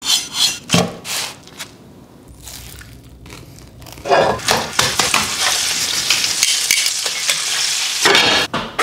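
A knife crunching through a crisp, pan-toasted tortilla in a few quick cuts, then, from about four seconds in, food sizzling steadily in a hot pan as it is stirred.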